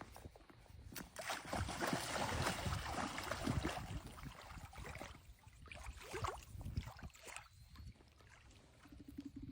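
Water sloshing and splashing, with scattered knocks and handling noise; loudest about a second to four seconds in.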